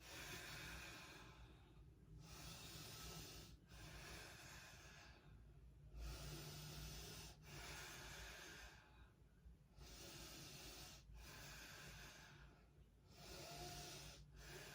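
Faint, slow, deep breathing: a steady run of soft hissing breaths in and out, each lasting a second or so, with short pauses between them.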